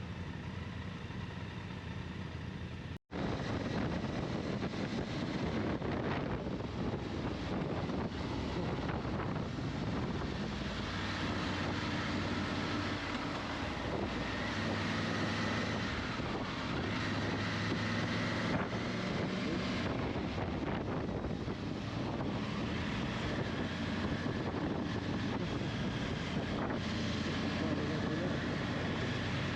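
Motorcycle engine running on the move, with wind rushing over the microphone; the engine note shifts up and down. A sudden brief dropout comes about three seconds in.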